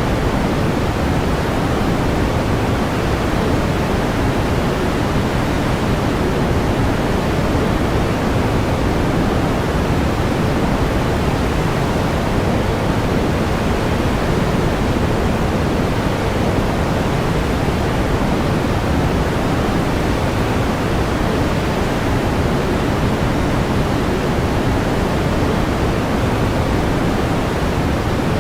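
Steady pink noise: an even hiss weighted toward the low end, unchanging throughout.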